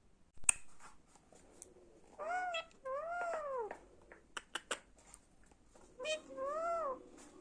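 Alexandrine parakeet giving three drawn-out, mewing calls that rise and fall in pitch, with a sharp click about half a second in and a quick run of clicks between the second and third calls.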